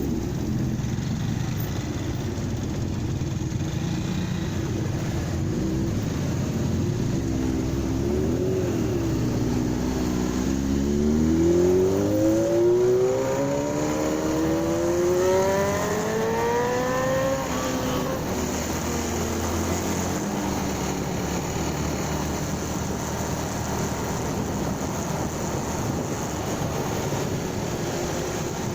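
Motorcycle engine under way with steady wind and road noise. About eight seconds in, its pitch wavers and then rises steadily as the bike accelerates for about ten seconds before easing off.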